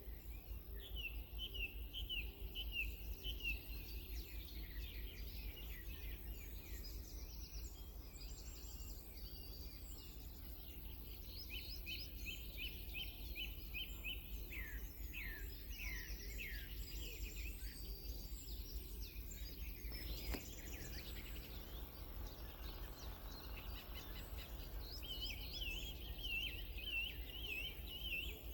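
Wild songbirds singing: phrases of quick, repeated high notes come three times, with scattered higher chirps between them, over a steady low background rumble.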